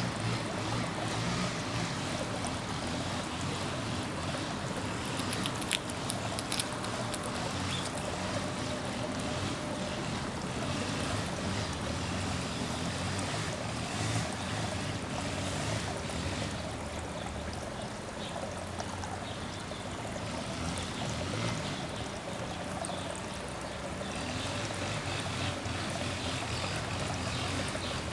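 Steady outdoor background rush with a few faint clicks, and no clear bird calls.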